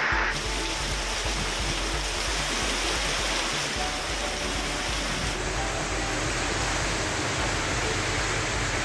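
Heavy rain pouring down onto a paved street: a steady, even hiss with no pauses.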